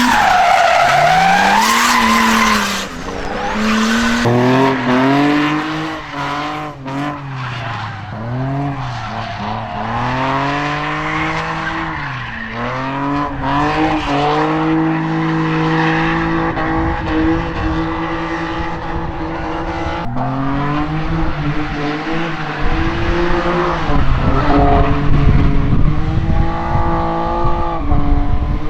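Drift car engine revving up and down repeatedly, with tyres squealing as they slide, loudest in the first few seconds. Revs are held high and steady for a while midway, then rise and fall again near the end.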